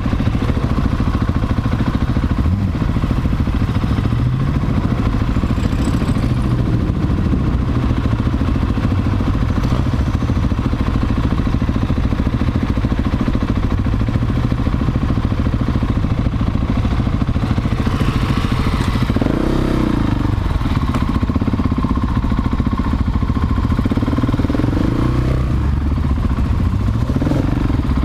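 Husqvarna 701 Supermoto's single-cylinder engine with a Leo Vince slip-on exhaust running at low revs, with a few brief rises and falls in revs in the second half.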